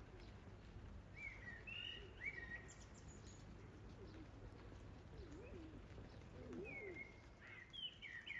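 Birds calling outdoors: short chirping phrases about a second in and again near the end, with lower wavering calls in between.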